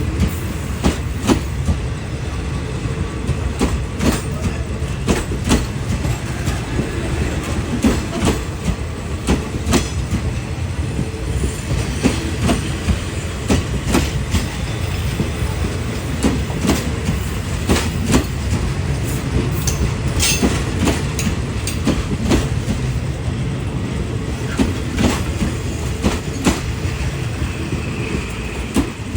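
Train running on the track: a steady low rumble with the clickety-clack of wheels striking rail joints, a click every second or so.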